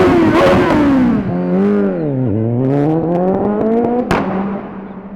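Motorcycle engine revving loud: the pitch sags to a low point about two seconds in, then climbs steadily as the throttle opens again, with a sharp click about four seconds in.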